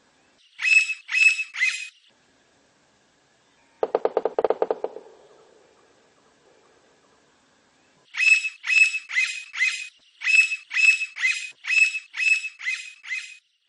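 Blond-crested woodpecker calling: three loud notes near the start, then, from about eight seconds in, a run of about a dozen more at roughly two a second. About four seconds in there is a brief, low, fast rattle.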